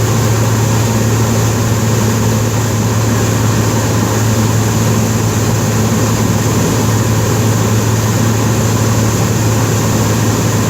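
Cessna 207's single piston engine and propeller running with a steady drone, with no change in pitch or loudness.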